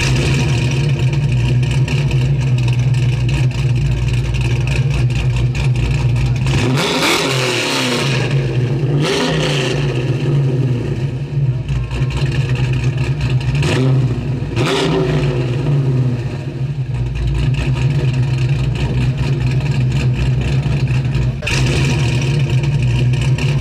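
Modified 1984 Buick Grand National's turbocharged 3.8-litre V6 idling through its aftermarket exhaust, revved with several quick throttle blips that rise and fall in pitch.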